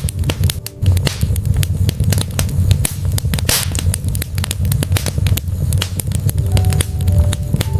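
Wood fire burning in a fireplace: a steady low rumble of flame with frequent sharp crackles and pops from the logs, and a brief hiss about three and a half seconds in.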